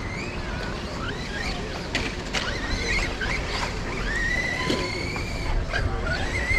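Electric radio-controlled cars' motors whining, rising and falling in pitch as they speed up and slow down, over a low rumble.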